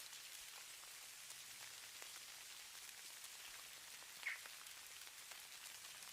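Faint, steady patter of falling snow, a fine hiss of tiny ticks. About four seconds in there is one brief, louder high-pitched chirp.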